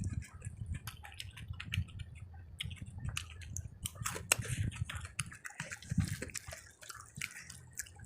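Close-miked chewing and wet mouth sounds of someone eating rice and curry, with many small moist clicks and smacks at an uneven pace.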